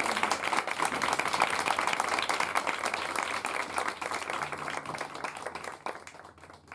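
Audience applauding with dense, irregular clapping, dying away near the end.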